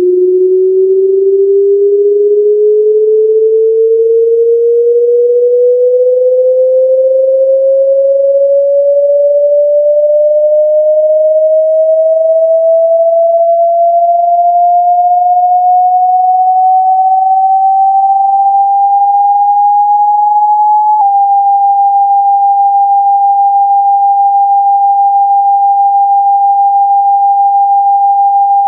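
Synthetic speaker-cleaning sine tone, loud and pure, sliding slowly upward in pitch for about twenty seconds. A small click follows, then a steady tone held at a fixed, higher pitch. Such tones are played to vibrate water and dust out of a phone speaker grill.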